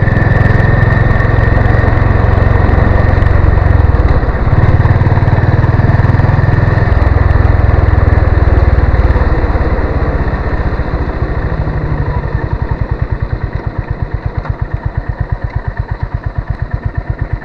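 Honda CB350 RS single-cylinder engine running under way. About ten seconds in the revs drop, and it settles into a slow, even beat of separate exhaust thumps as the motorcycle slows toward idle.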